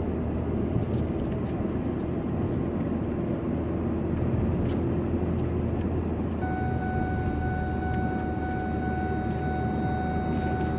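Road and engine noise of a truck being driven, heard from inside the cab: a steady low rumble and hiss with a few light ticks. About two-thirds of the way in, a steady high-pitched electronic warning tone starts and holds, the kind of seatbelt warning the truck has been sounding because the driver is unbelted.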